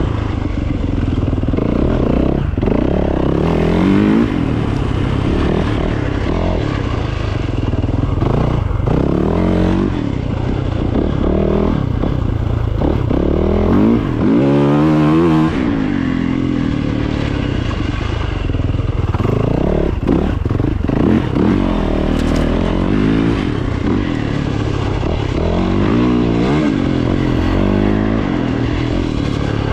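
Dirt bike engine running while being ridden, its pitch rising and falling again and again as the throttle is opened and closed. There is a rougher, clattering mechanical noise underneath.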